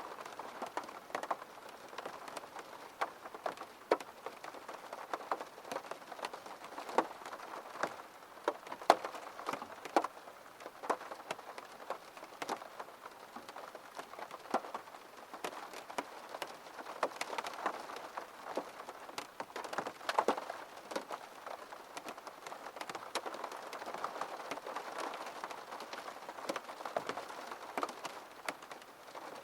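Rain falling on a window: a steady hiss with many sharp drop taps at irregular moments.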